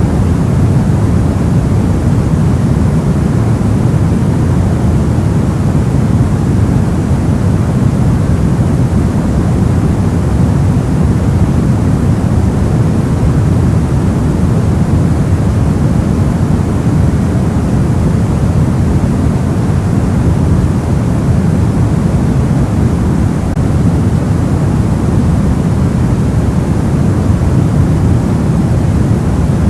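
Steady sleep-aid noise, soft and deep, weighted to the low end like a dull rumble, with no changes or events.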